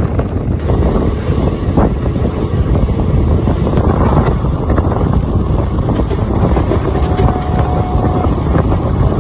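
Express passenger train running along the track, a steady loud rumble of wheels and coach with wind buffeting the microphone.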